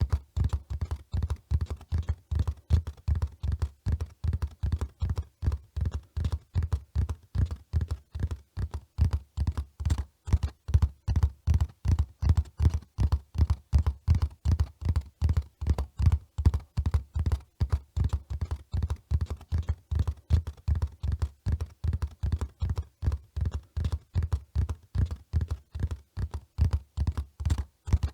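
Horse hooves running: dull, low thuds in a steady, even rhythm, several a second.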